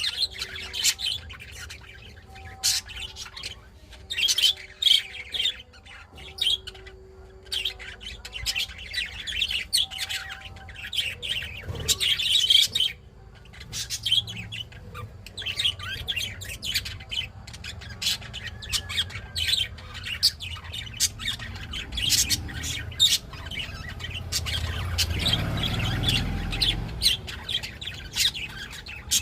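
Adult budgerigar chirping and chattering in quick, short, high calls, with brief pauses. A low rumble joins for a couple of seconds near the end.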